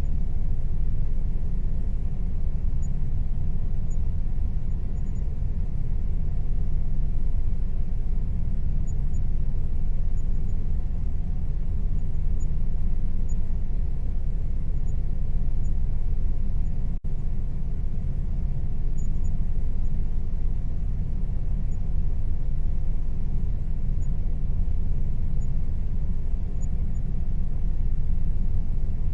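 Air conditioner running with a steady, low rumbling hum and a faint steady tone above it, cutting out for a split second about halfway through.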